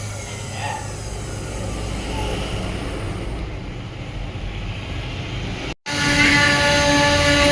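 CNC router carving wood: a steady machine hum with whines that shift in pitch. About six seconds in the sound cuts out for an instant, then comes back louder with a steady high whine.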